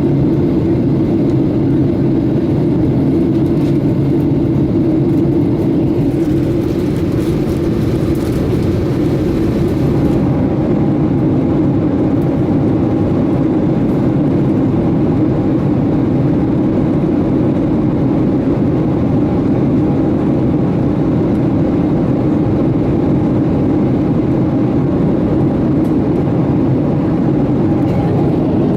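Steady engine and airflow drone inside the cabin of a Boeing 757-200 in its climb after takeoff. About ten seconds in, the higher hiss softens and a faint steady tone comes in above the drone.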